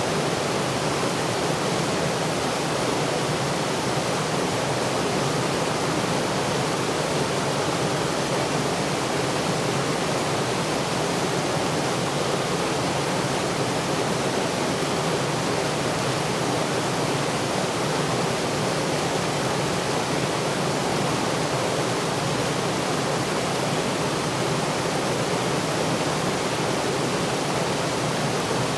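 Waterfall rushing steadily: a constant roar of falling water with no breaks or changes.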